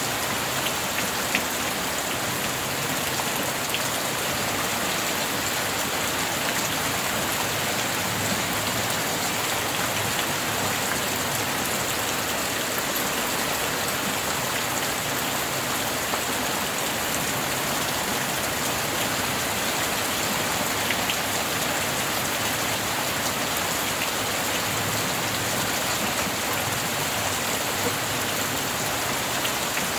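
Steady rain falling: an even, unbroken hiss with scattered light ticks of individual drops.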